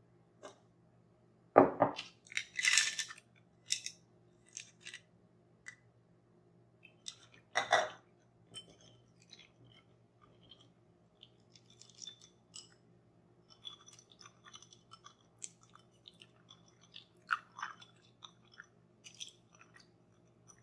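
Close-miked handling sounds of toy unboxing: irregular crunching and crackling, louder in two bursts about two seconds and eight seconds in, with scattered lighter crackles and clicks later.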